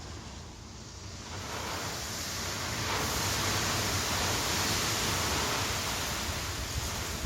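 Storm wind gusting: a broad rushing roar swells about a second in, holds strong, then eases a little near the end, with a low rumble of wind buffeting the microphone.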